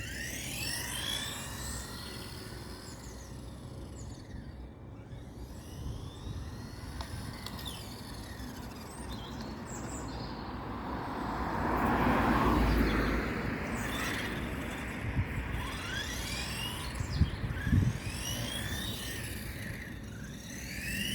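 Electric motor whine of a 1/14-scale Carisma GT14 RC touring car, rising and falling in pitch as it accelerates, brakes and passes. It swells louder about two thirds of the way through, and a few sharp knocks follow shortly after.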